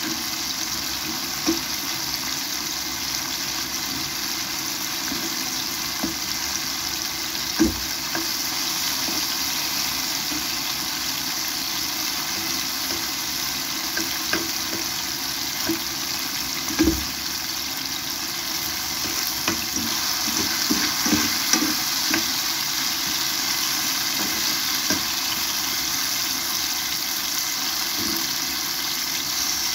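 Sliced mushrooms frying in a nonstick pan: a steady sizzle. Now and then a metal fork turning the pieces clicks and scrapes against the pan, most often a little past the middle.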